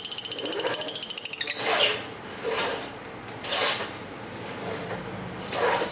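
Lovebird calling: a rapid high-pitched pulsed trill lasting about a second and a half, then four short harsh squawks spaced about a second apart.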